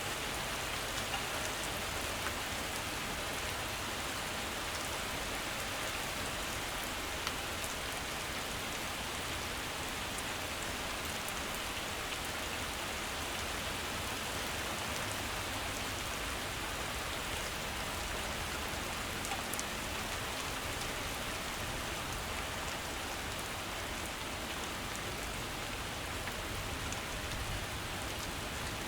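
Heavy rain falling steadily, an even hiss with the odd single drop ticking out now and then.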